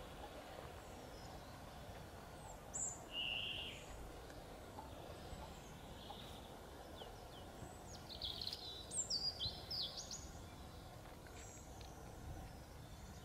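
Small songbirds chirping over faint, steady outdoor background noise: a couple of short high calls about three seconds in, then a quick run of high, falling chirps a little past the middle.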